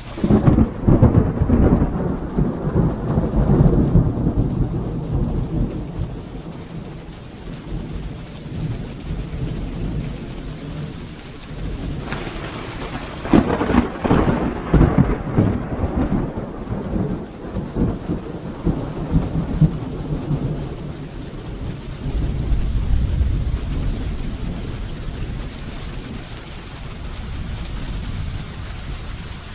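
Thunderstorm: steady rain with thunder. A crack right at the start rolls into a long rumble, a second crack about halfway through rumbles away over several seconds, and a lower rumble follows near the end.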